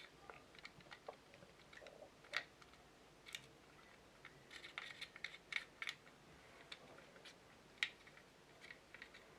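Faint, irregular small clicks and scrapes of plastic model-kit parts being handled and dry-fitted, a cluster of quick clicks around the middle and one sharper click near the end.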